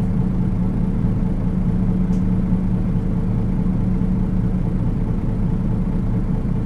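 Nissan Diesel KL-UA452KAN city bus's diesel engine running steadily, heard from inside the passenger cabin as an even, low hum.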